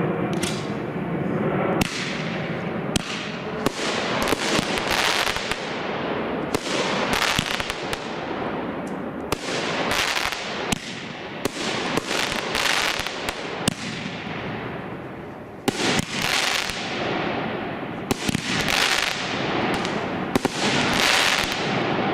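Shogun 'Knock Your Socks Off' consumer fireworks cake firing: a rapid, continuous string of shots and aerial bursts with crackling, heaviest about halfway through and again near the end.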